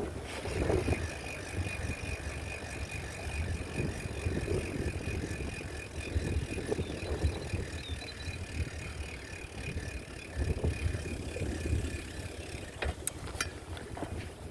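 A bicycle being ridden, with wind rumbling on the microphone and a mechanical rattle from the bike. A steady high-pitched tone runs through most of it and stops shortly before a couple of sharp clicks near the end.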